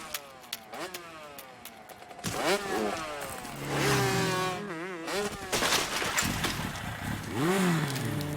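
Cartoon motorcycle engine sound effects, revving up and down in repeated rising and falling glides, with a wobbling stretch about halfway through.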